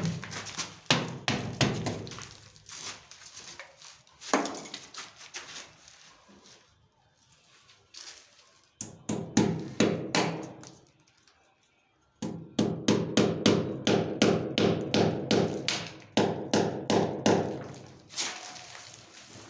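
Repeated hard knocking, as of hammer blows during installation work, in runs with short pauses. The longest run, in the second half, goes at several strikes a second.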